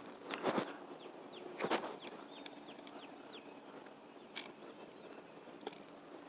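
Birds calling outdoors: a quick run of short falling chirps and a few high thin whistled notes. Two brief scuffing noises come about half a second and just under two seconds in.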